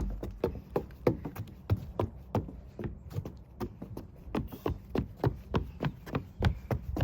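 A quick, uneven series of light knocks, about four to five a second, like steps or hooves on a hard surface.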